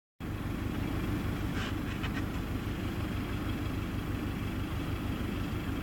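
Rally car engine running with a steady low rumble, with a few short higher-pitched sounds about a second and a half to two seconds in.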